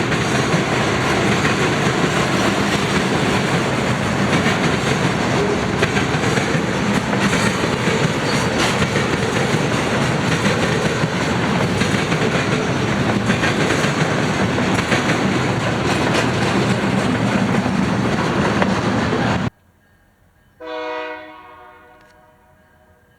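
Freight train rolling past close by: a steady loud rush of wheels on rail with clickety-clack from the rail joints. It cuts off abruptly about three-quarters of the way through, and a second later a locomotive air horn gives one short blast that trails away.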